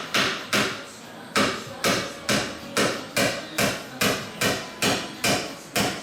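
Hammer driving a nail into wood with steady, evenly spaced blows, about two a second, with a short pause about a second in.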